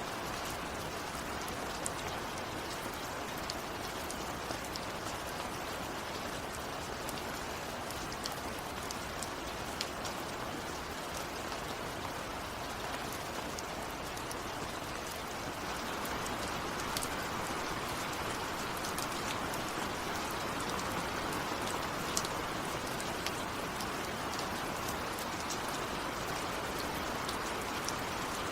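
Steady rain falling on a surface, with a constant hiss and many individual drops ticking through it. The rain grows a little heavier about halfway through.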